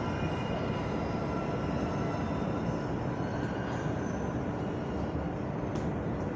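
Subway train running in the station: a steady rumble with high whining tones that fade out over the first couple of seconds.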